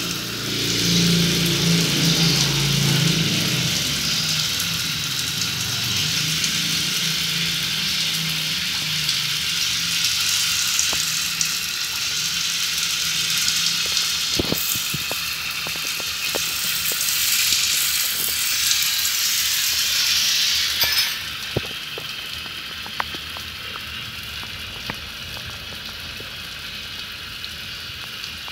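Water running from a tap in a steady spray-like hiss, dropping sharply about 21 seconds in to a quieter trickle with a few scattered ticks.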